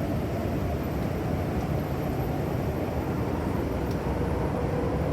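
MTR M-Train electric multiple unit running between stations, heard from inside the passenger car: a steady rumble of wheels on rail and traction equipment, with a faint steady whine coming in near the end.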